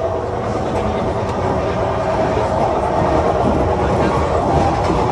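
Ganga Kaveri Express passenger train in motion, heard from inside a coach by the doors and washbasin: the steady, loud running noise of wheels on the rails.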